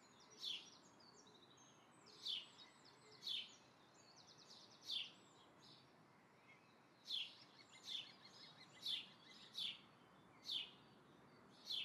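A songbird chirping repeatedly: about ten short, faint chirps that drop in pitch, roughly one a second, with a few quick trills in the first half.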